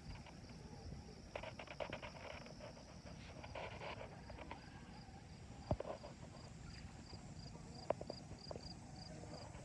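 Scattered footsteps and small clicks over quiet outdoor ambience, with a faint high chirp repeating several times a second.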